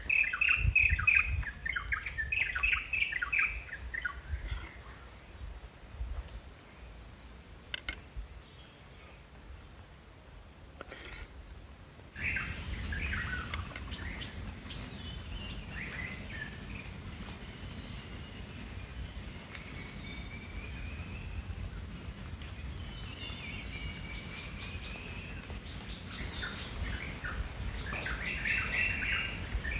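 Small birds chirping in quick series and calling on and off. A low steady rumble comes in about halfway through and runs on under the calls.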